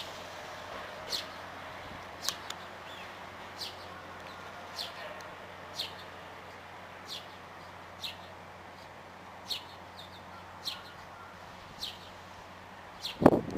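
Short, high, falling chirps repeating about once a second over a faint steady hum. A loud clunk comes just before the end.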